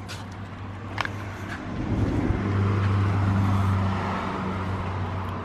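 Steady low mechanical hum that swells louder for a couple of seconds in the middle, with a few light clicks near the start.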